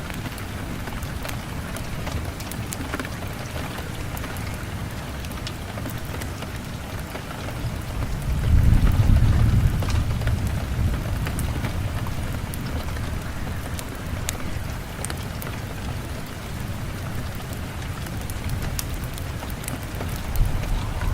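Steady rain falling, with scattered small crackles from a fireplace. A low rumble swells and fades about eight seconds in.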